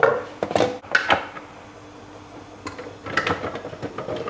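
Kitchen utensils and containers knocking and clattering on a countertop as they are handled: a quick run of knocks in the first second, then another run of clinks and knocks near the end.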